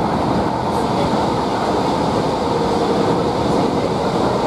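Interior running noise of a Class 153 diesel railcar travelling at speed: a steady mix of wheel-on-rail noise and the diesel engine, with no breaks or distinct clicks.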